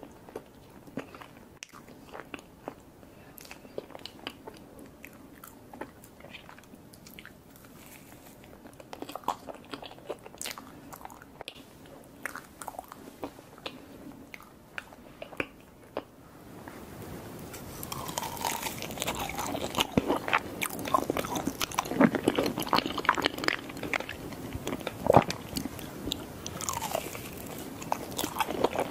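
Close-miked chewing and biting of mousse cake, with wet mouth clicks and smacks. It is faint and sparse at first, then louder and denser from about 16 seconds in.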